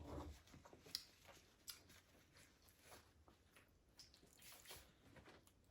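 Faint chewing by a person eating, with a few soft scattered mouth clicks.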